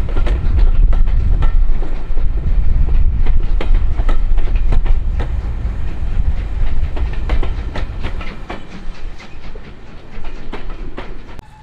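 Train passing close by on jointed track, a heavy rumble with wheels clicking over the rail joints, fading as it draws away and cutting off suddenly near the end.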